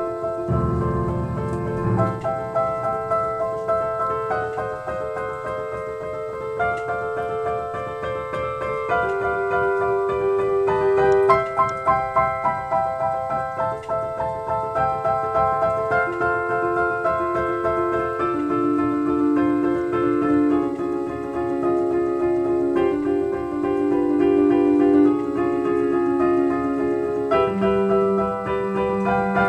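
A keyboard instrument with a piano-like sound playing a melody over held chords, the notes changing every second or so. A low buzz lasting about a second and a half sounds near the start.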